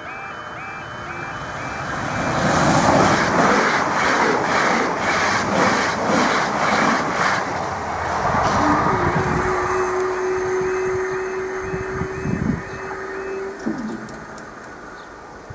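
A Southern Class 377 electric train passing over a half-barrier level crossing: a rising rush of noise with the wheels clattering about twice a second over the rail joints, while the crossing's warning alarms keep sounding faintly underneath. After the train, a steady hum holds for several seconds and then winds down.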